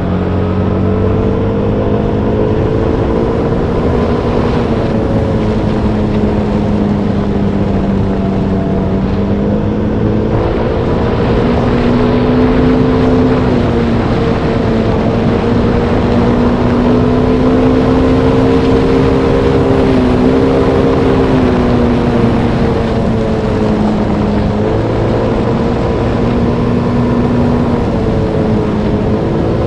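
Motorbike engine running steadily while riding, its pitch drifting gently up and down with a few brief dips, over a constant rush of wind and road noise.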